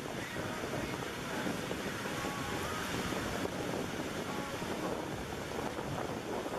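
Steady rushing noise of a train running past, with wind buffeting the microphone.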